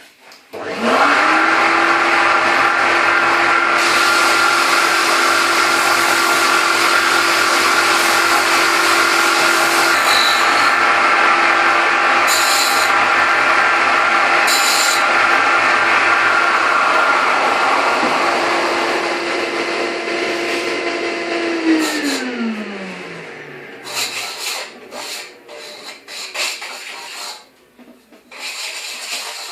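Electric bench sander starting up, running steadily as an oak wedge is sanded flat against it, then switched off about three-quarters of the way through and winding down with a falling hum. A few knocks and rubbing sounds follow.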